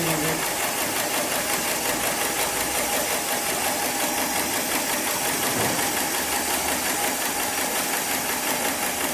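Heavy-duty programmable pattern sewing machine for slings and straps running steadily.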